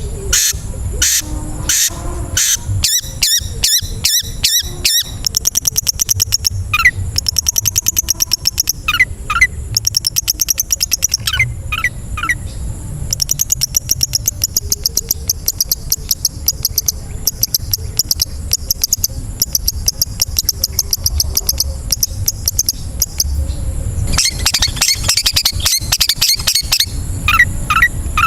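Long-tailed shrike (cendet) song: fast chattering and clicking runs, mixed with short, sharp whistled notes, in loud, dense bouts. A thick burst of chatter comes near the end.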